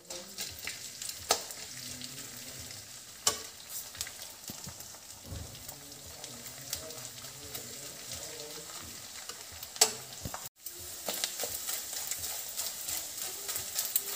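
Gond (edible gum) frying in ghee in a kadhai, sizzling steadily while a metal spatula stirs and scrapes through it, with a few sharp knocks of the spatula against the pan. After a brief dropout about ten seconds in, the sizzle crackles more busily as the gum puffs up.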